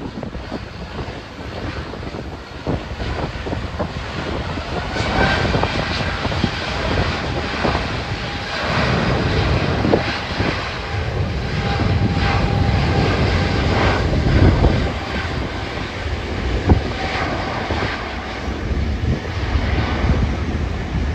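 Airliner engines running with a steady whine, heard over wind buffeting the microphone in gusts.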